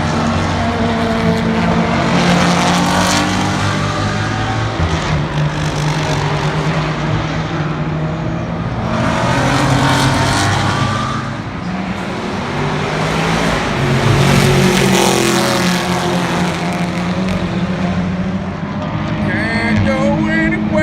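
Sports-prototype and GT race cars running past on track, engines at high revs, loud swells as cars go by about three times.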